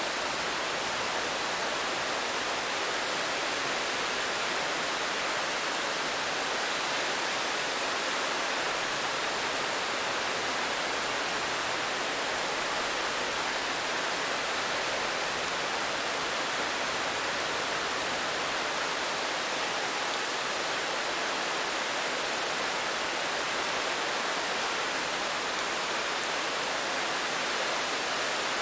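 Steady rain, an even wash of noise with no single drops standing out and no change in level.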